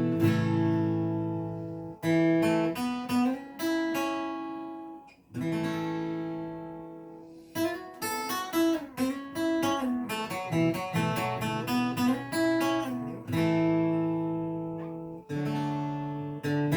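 Solo acoustic guitar instrumental: strummed chords left to ring out and fade, with a quicker run of picked notes in the middle.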